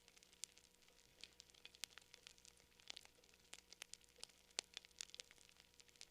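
Campfire crackling faintly: irregular sharp pops and snaps, several a second, with one louder snap about three-quarters of the way through.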